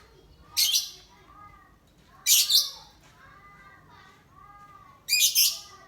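Pied lovebird giving three short, harsh, shrill calls, each about half a second long. Fainter chirps from other birds repeat throughout underneath.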